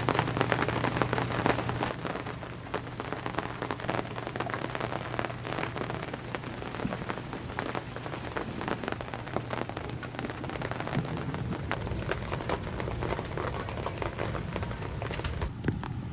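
Heavy rain drumming on a pop-up camper, heard from inside as a dense, steady patter of drops.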